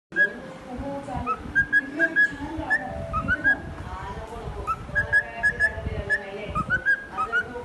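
Male cockatiel whistling a string of short, clear notes, several of them sliding upward in pitch.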